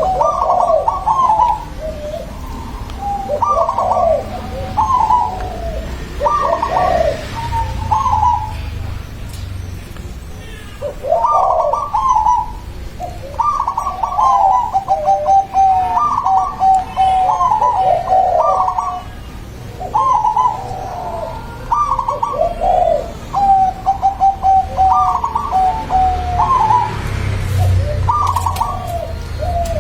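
A dove cooing: repeated phrases of quick, staccato coos, some running into rapid strings of short notes, recurring every second or two.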